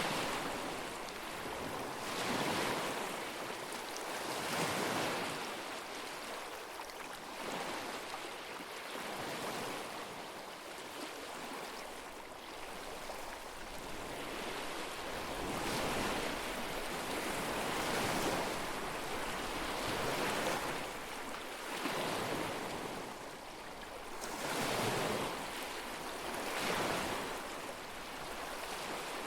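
Small lake waves washing onto the shore, each wave a soft swell of splashing that comes roughly every two seconds.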